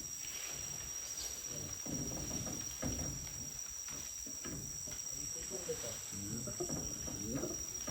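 Steady, high-pitched drone of rainforest insects, one unbroken tone with a hiss just above it. Soft, murmured voices come and go beneath it, mostly in the second half.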